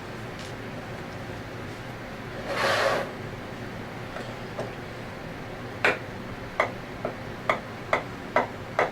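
A short hiss about two and a half seconds in, then a run of sharp clicks every half second or so from a hand tool working on the scroll compressor's screws, typical of a ratchet driver being cranked.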